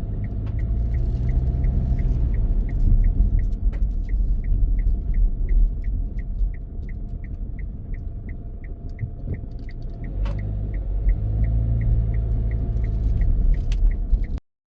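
Low rumble of a car heard from inside the cabin as it drives slowly, with a turn-signal indicator ticking evenly about twice a second. The sound cuts off abruptly near the end.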